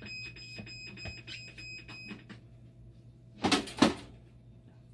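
Dialysis machine alarm: a steady high-pitched tone over rapid small clicks and a low hum, cutting off a little over two seconds in. About three and a half seconds in come two loud, short bursts of noise.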